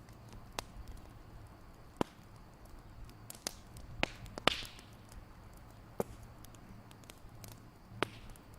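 Wood fire crackling: sharp, separate pops every second or two, one near the middle with a short hiss after it, over a faint low hum.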